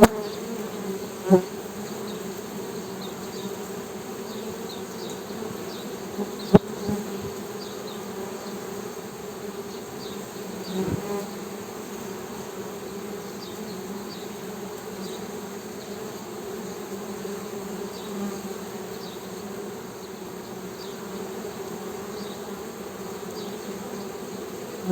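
Honey bees humming steadily in a continuous drone. A few brief sharp clicks cut through, the loudest about six seconds in.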